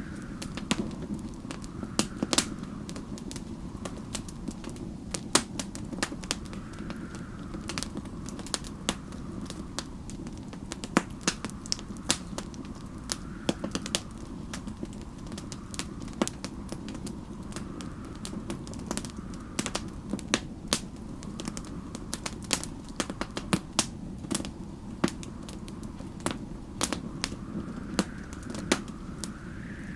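Wood fire crackling, with irregular sharp pops and snaps over a steady low rumble. Faint snowstorm wind whistles softly, rising and falling every couple of seconds.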